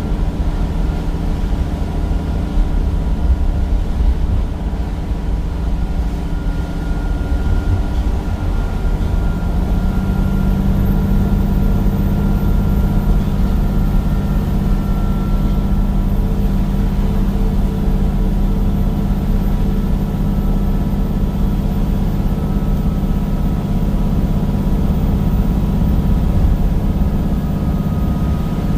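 Temsa Avenue bus's Cummins diesel engine running with a steady low drone; about ten seconds in the engine note changes to a stronger, steady hum that holds to the end.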